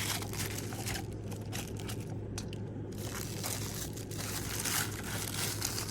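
Crunching and crinkling of a cardboard subscription box and its packaging being handled, with irregular rustles over a steady low hum.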